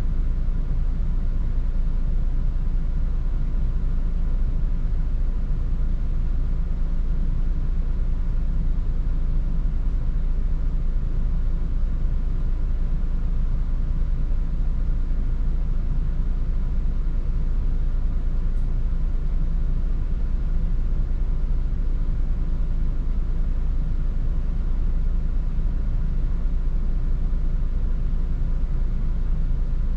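Volvo 8900 12-metre bus heard from inside the cabin, driving along: a steady low engine and road rumble with a faint steady whine above it.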